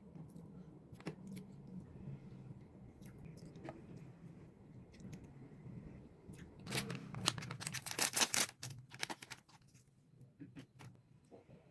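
Scattered small clicks, then about seven seconds in a dense two-second burst of crinkling and tearing, like a snack's wrapper being handled and torn open. A faint low hum sits underneath.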